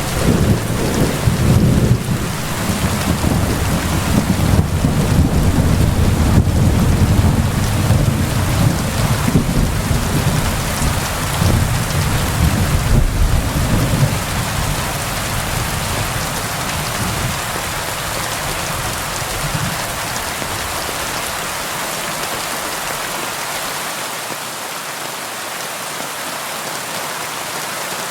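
Steady rain falling on a window, with a long, low roll of thunder through the first half that dies away, leaving only the even hiss of rain.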